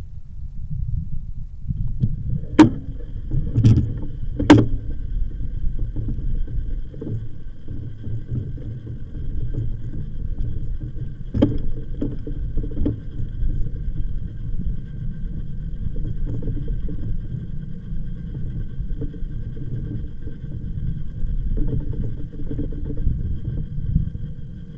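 Ride noise of an e-bike on a path: a steady low rumble of wind on the microphone and tyres, with a few sharp knocks and rattles from bumps, three close together early on and one about eleven seconds in. A faint, steady high whine runs under it from about two seconds in.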